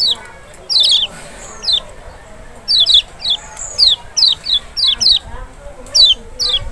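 Lemon-bellied white-eye (kecial, Zosterops chloris maxi) calling: short, sharp high notes, each falling in pitch, about two a second and often in quick pairs.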